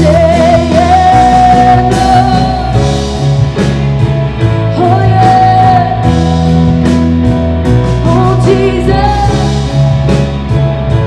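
Live church worship band playing rock-style praise music, a voice holding long drawn-out notes over sustained chords.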